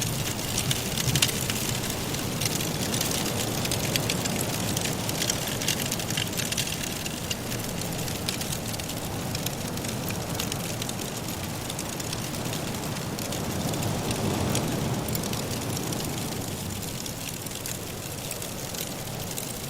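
Wood fire crackling in a fireplace, many small sharp pops over a steady hiss, with a low rush of wind that swells briefly a little past the middle.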